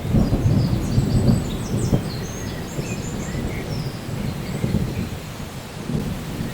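Rolling thunder rumbling over steady rain: the rumble is strongest in the first two seconds, dies down, then swells again briefly near the end.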